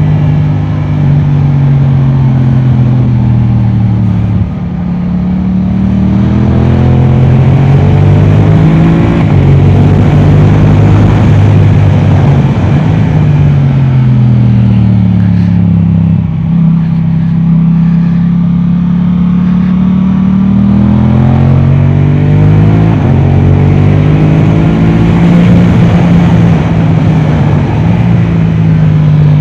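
Yamaha R7's parallel-twin engine through an Akrapovic exhaust, ridden hard on track: the engine note repeatedly climbs in pitch as it accelerates, then drops back, over steady rushing wind noise.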